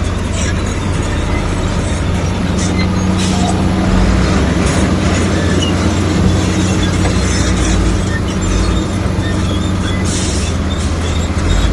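Bulldozer's heavy diesel engine running steadily under load, with its steel tracks clanking and scraping at intervals.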